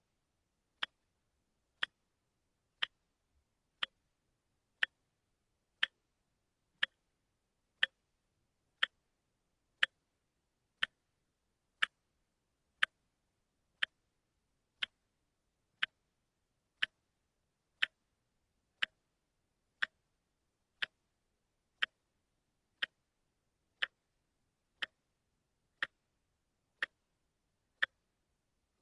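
Quartz wristwatch ticking steadily, one sharp tick a second as the second hand steps.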